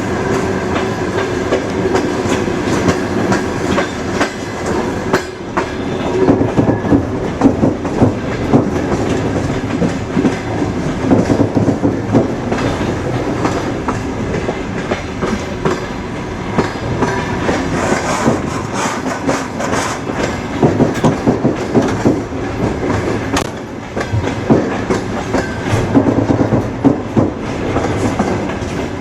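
Railway train running on the rails: a continuous rolling noise with wheels clicking over rail joints in irregular clusters of clacks.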